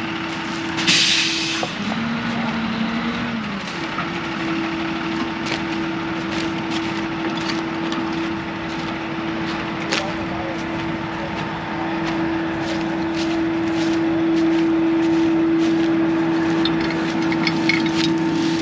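Heavy diesel engine running steadily under load. Its drone dips lower for about two seconds near the start and grows louder through the second half. A short burst of hiss comes about a second in.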